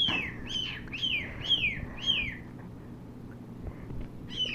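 Pet cockatiel giving a run of about five short whistled chirps, each falling in pitch, roughly two a second; after a pause, another call starts near the end.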